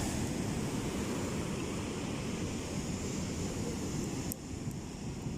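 Ocean surf washing on the beach, with wind buffeting the microphone. A small click comes near the end, after which the hiss sounds duller.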